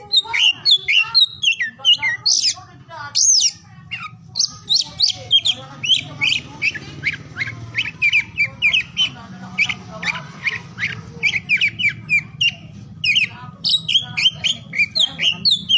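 Oriental magpie-robin (kacer) singing: a fast, varied, unbroken string of short chirps and whistles, with a faint low hum underneath.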